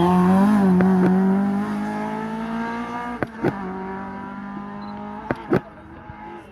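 Ford Escort hill-climb car's engine accelerating away under load, its pitch climbing slowly as it fades into the distance. A few sharp cracks, about four, punctuate it in the second half.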